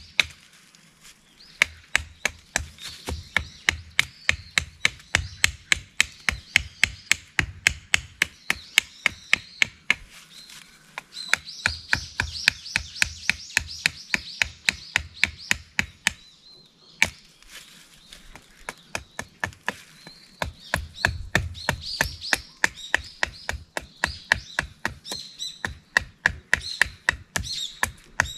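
Japanese nata blade chopping into wood in quick repeated strokes, about two to three blows a second, with a few short pauses between runs of blows.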